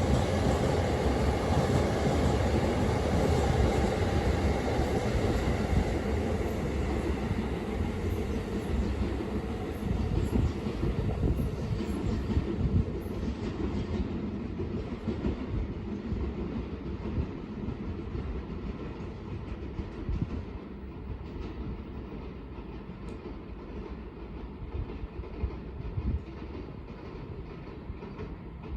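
Train running along the track, its noise loudest at first and fading steadily as it moves away.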